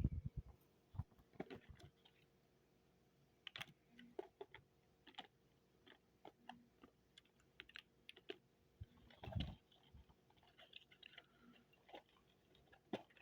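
Scattered faint clicks and light knocks of plastic HO-scale model train cars being handled and set on the track, with one duller thump about nine seconds in.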